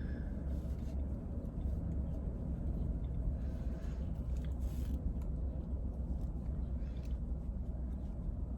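Steady low rumble of road and wind noise from a moving vehicle at cruising speed, with no change through the stretch.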